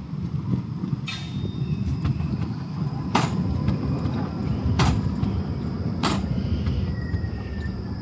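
Ride inside an electric city transit vehicle: a steady low running rumble with about five sharp clicks, and a faint falling whine near the end as the drive slows.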